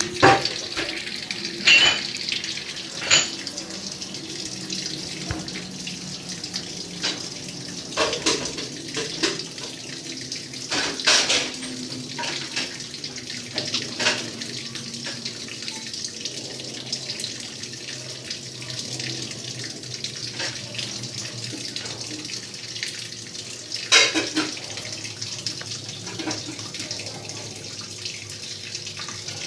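Maytag washing machine running a wash cycle: water swishing and splashing in the tub, with irregular louder splashes over a faint steady motor hum.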